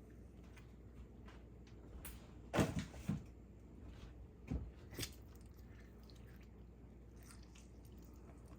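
A few short, soft knocks and handling sounds from items being set down or moved during food preparation, about two and a half to five seconds in, over quiet room tone.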